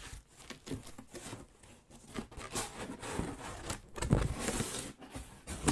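Irregular small clicks, rustles and scrapes, with a louder, denser scraping burst about four seconds in.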